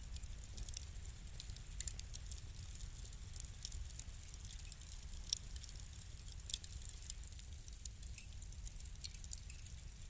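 Wood fire crackling: frequent irregular sharp snaps and pops, a few louder ones in the middle, over a low steady rumble of the burning.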